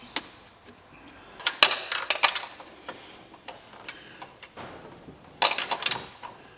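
Metal hand tools clicking and clinking on the engine in two short clusters, one about a second and a half in and another near the end.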